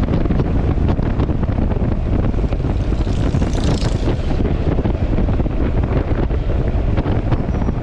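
Heavy wind buffeting on the microphone of a moving Yamaha XMAX scooter, with the scooter's engine and road noise running steadily underneath. About three seconds in, a brief higher hiss rises and fades.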